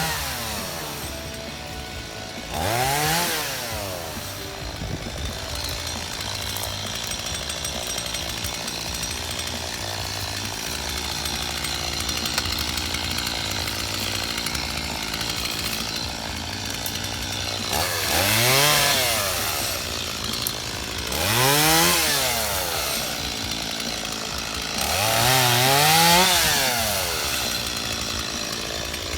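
Two-stroke Stihl chainsaw running, revved up and dropping back to idle four times: once about three seconds in and three times in the last third, idling in between.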